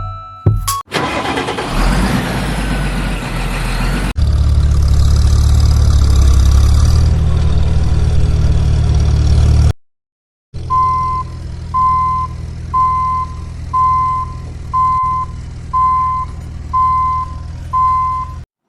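A vehicle engine starting and then running with a steady low drone. After a brief drop to silence the engine runs on under a reversing alarm, which beeps eight times about once a second.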